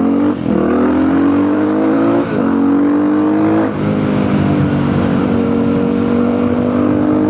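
Supermoto motorcycle engine accelerating up through the gears: its note climbs and drops sharply at three upshifts in the first four seconds, then holds at a nearly steady cruise.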